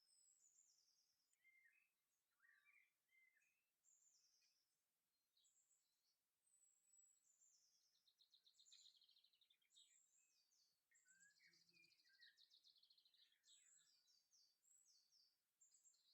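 Faint birdsong: several small birds singing, with short high chirps and quick trills one after another.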